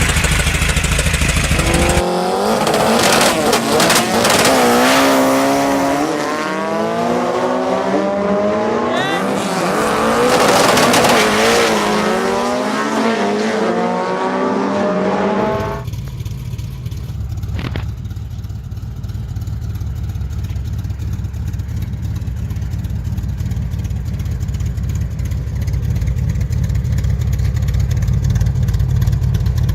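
Car engine running, with a stretch of quickly wavering higher pitch in the first half, then settling into a steady low rumble like an idle from about halfway on.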